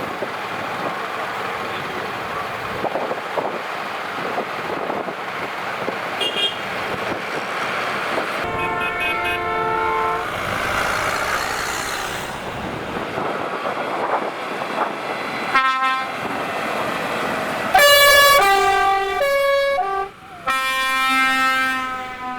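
Steady engine and road noise from passing vehicles, then vehicle horns honking: a blast about a third of the way in, a brief toot past halfway, and several loud horn blasts at different pitches near the end.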